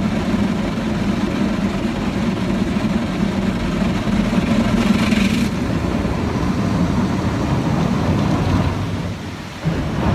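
Automatic car wash machinery running over the car on a rinse pass, heard from inside the cabin as a steady low rumble with water spraying on the body. A burst of hiss comes a little under halfway through, and the sound dips briefly near the end.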